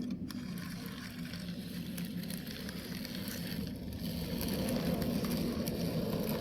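Gravel-loaded toy trucks on the move: a steady low hum with a crackling, gritty rattle, slowly growing louder.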